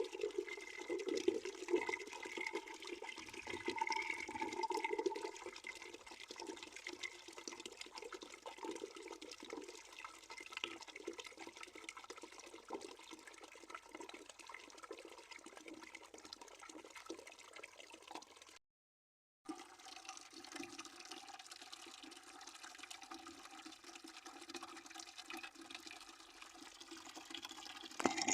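Water running steadily into a bucket with a continuous splashing rush. It is louder for the first few seconds, then settles lower, and cuts out completely for under a second just past the middle.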